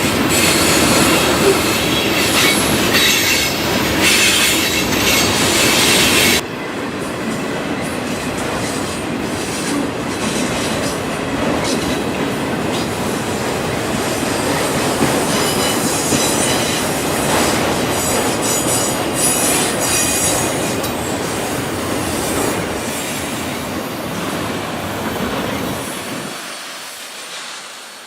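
Freight train cars rolling past on the track, a steady rumble and clatter of wheels on rail with high-pitched wheel squeal. The sound drops abruptly about six seconds in, carries on more softly, and dies away near the end.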